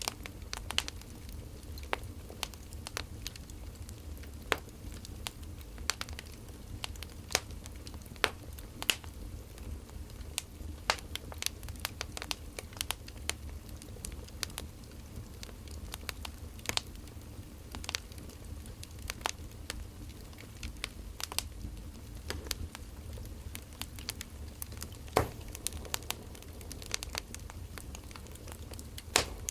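Wood fire crackling: irregular sharp pops and snaps of burning firewood, several close together at times, over a steady low rumble.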